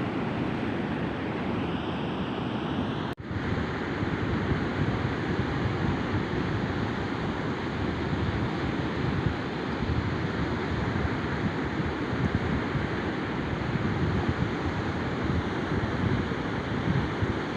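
Rough sea surf washing against a rocky shore, with wind buffeting the microphone throughout. The sound drops out for a moment about three seconds in.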